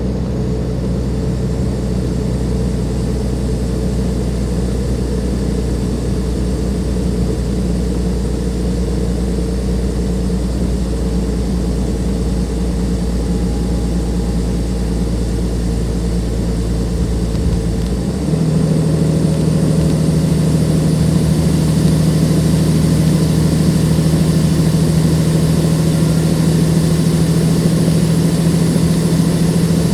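Cummins ISLe six-cylinder diesel engine of a Dennis Enviro 500 double-decker bus running at a steady speed, then stepping abruptly to a louder, higher steady hum about eighteen seconds in.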